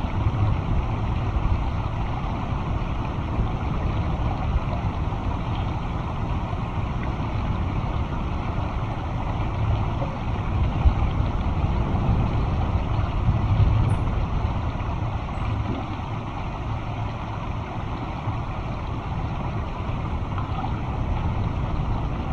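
Wind buffeting the microphone: a steady low rumble that swells and eases in gusts.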